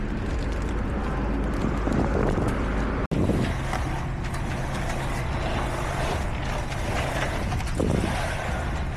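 Construction machinery engines running steadily, with a brief cut about three seconds in before a similar engine drone carries on.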